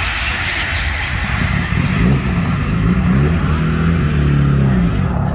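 A car engine running and revving, its pitch dipping and rising, over a steady low rumble.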